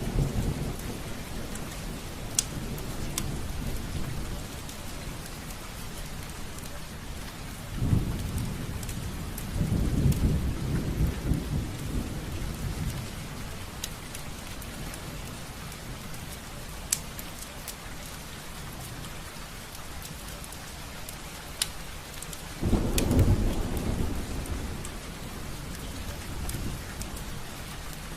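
Rain falling steadily on a window, a constant hiss with scattered sharp drop ticks. Low rumbles swell up three times, the loudest about ten and twenty-three seconds in.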